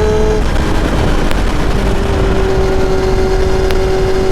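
Kawasaki ZX-7R's inline-four engine running under way, with heavy wind noise. Its tone drops about half a second in, then settles and holds steady.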